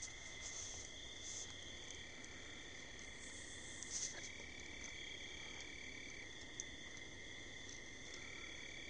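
Night chorus of crickets and other insects, trilling steadily at several pitches, with one faint short sound about four seconds in.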